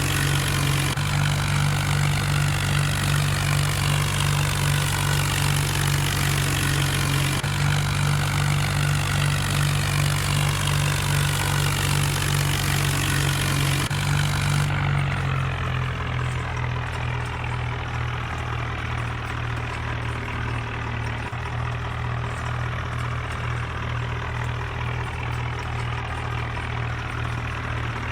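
Tractor diesel engine idling with a steady low note. About halfway through the sound shifts abruptly and becomes duller and slightly quieter.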